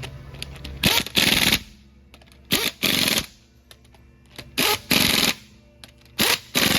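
Impact wrench fired in four short runs, each a brief blip and then about half a second of rapid hammering, running lug nuts tight on a car wheel.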